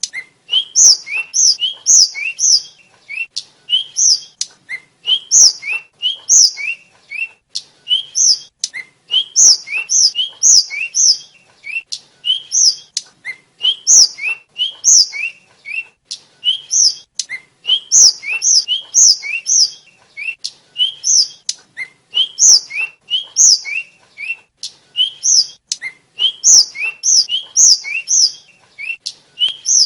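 A tledekan songbird singing a rapid string of short, sharp whistled chirps. A lower note is followed by a higher one, over and over, in quick bursts broken by short pauses.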